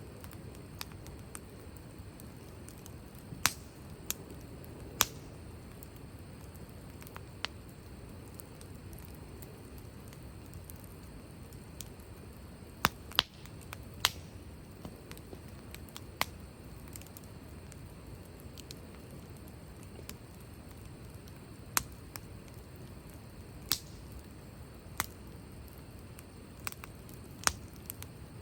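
Wood fire burning with a low steady rush, broken by sharp, irregular crackles and pops of the burning firewood, about a dozen in all.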